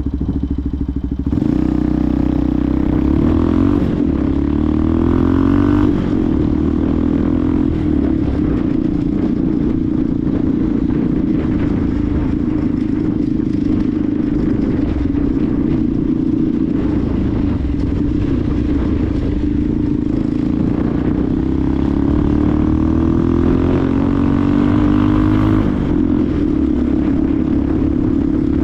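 Benelli TNT 125's single-cylinder four-stroke engine running under way. Its revs climb twice, once just after the start and again near the end, each climb ending in a brief dip.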